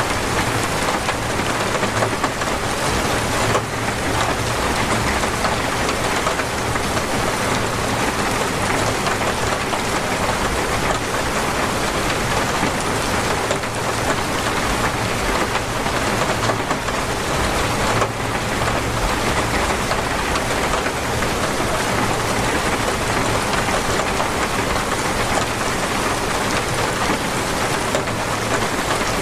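Heavy torrential rain, a dense steady downpour on the surfaces around the chalet, with a low rumble beneath it.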